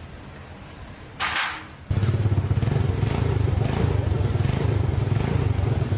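Motorcycle engine being started: a short burst of noise a little over a second in, then the engine catches abruptly and keeps running with a steady, fast low pulsing.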